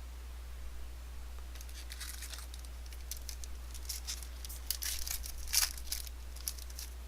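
A trading-card pack's wrapper being torn open and crinkled, a run of irregular crackles starting about a second and a half in and loudest near the end.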